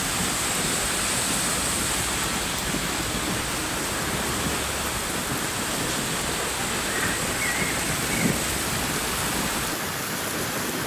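Steady rain, an even, unbroken hiss of falling water.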